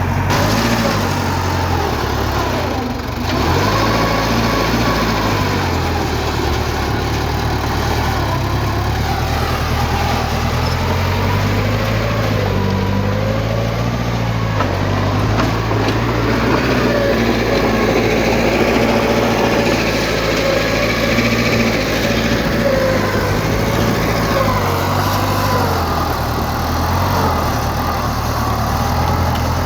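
Diesel engine of heavy earthmoving machinery running steadily, its pitch drifting up and down as the load changes.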